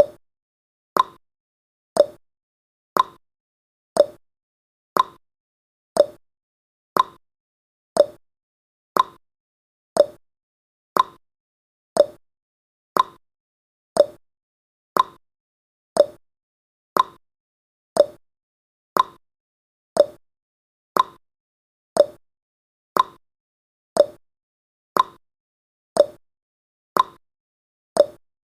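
Countdown timer's clock-tick sound effect, one sharp tick every second, evenly spaced.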